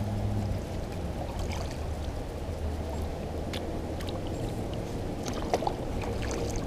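Water lapping and trickling around a kayak on a river, with a few small drips and splashes over a steady low rumble.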